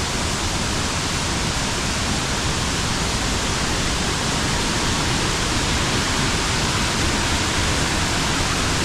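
Waterfall flowing strongly, a steady, loud rush of water.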